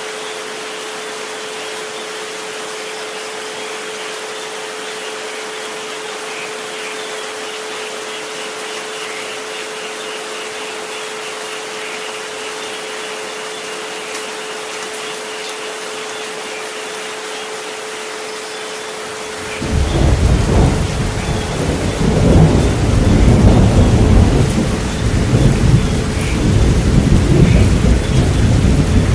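Steady rain hiss under a continuous pure tone, the 432 Hz sleep frequency. About two-thirds of the way through, a loud, deep roll of thunder comes in and keeps rumbling to the end.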